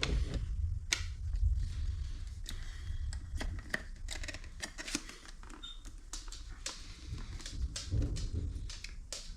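Thunder rumbling low, easing off after the first couple of seconds and swelling again about eight seconds in, with many scattered sharp ticks over it.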